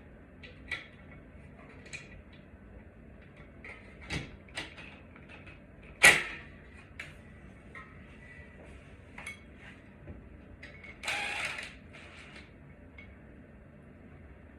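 Scattered light clicks and knocks of hand-work on ceiling-fan parts, with one sharp knock about six seconds in and a short scrape near the end.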